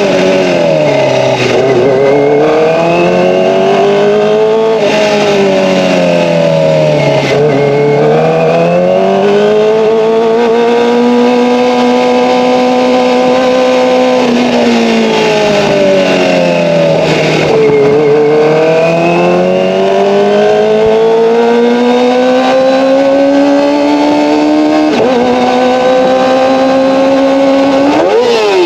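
Kawasaki ZX-25R's 250 cc inline-four running through an Akrapovic Evolution exhaust, its pitch sweeping down and up again several times as the throttle is closed and reopened, with a few sudden steps in pitch.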